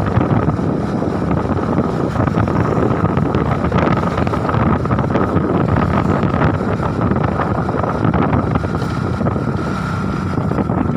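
Strong wind buffeting the microphone: a loud, steady rushing roar that never lets up.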